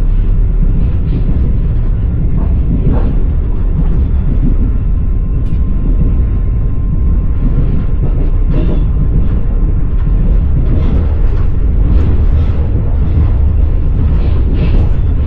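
Passenger train under way, heard from inside the carriage: a steady low rumble with the wheels clattering and knocking over the rails.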